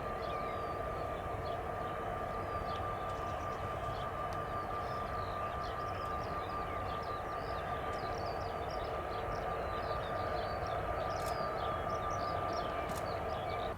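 Jet airliner's turbofan engines running with a steady drone and a constant high whine, while small birds chirp faintly over it.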